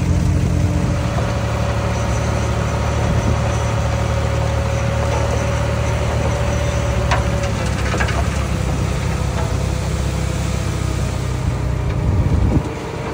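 Diesel engine of heavy earthmoving machinery running steadily, with a few sharp knocks around the middle. The engine sound drops away suddenly near the end.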